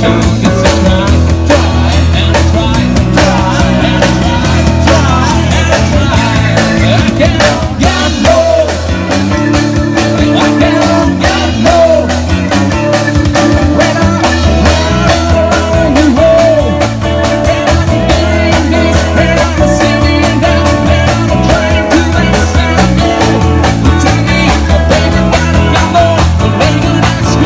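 Loud rock music from a rock band, with a heavy low end and bending melody lines.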